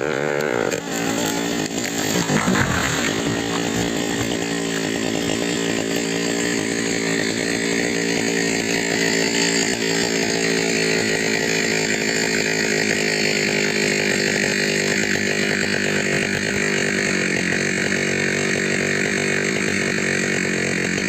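Two-stroke chainsaw running at high revs while felling timber. Its pitch wavers in the first few seconds, then holds steady as it cuts.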